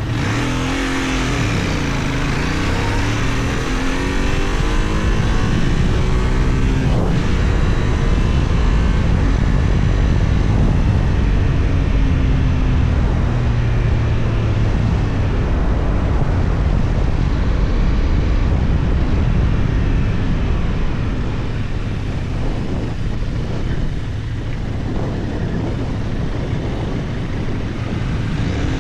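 Benelli Tornado 550's 554 cc 270°-crank parallel-twin engine running under way, its pitch rising and falling several times in the first seven seconds or so as it accelerates through the gears, then holding steadier, with wind rush on the helmet-level action camera.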